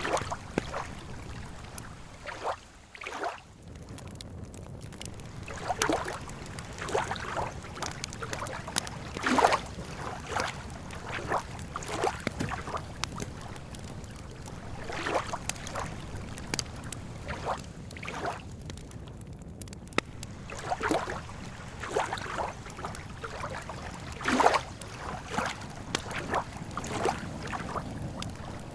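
Campfire crackling, with irregular pops and cracks over a steady low wash of small waves lapping at a lake shore.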